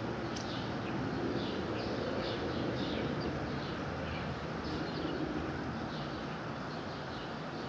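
Small birds chirping, a run of short high notes several times a second, over a steady low background rumble.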